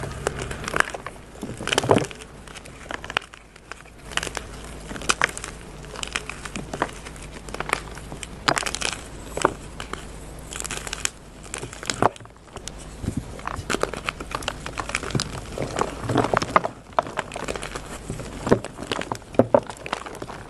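Dyed gym chalk blocks being crushed and crumbled, with irregular crunchy crackles.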